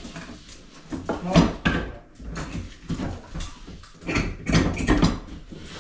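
Irregular knocks and clatter, a string of short sharp sounds coming at uneven intervals.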